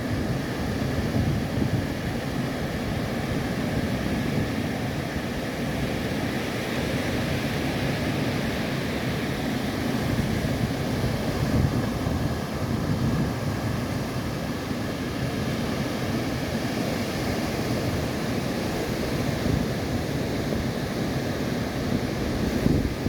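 A tractor-drawn hay baler running steadily: a continuous, even machine rumble with no pauses.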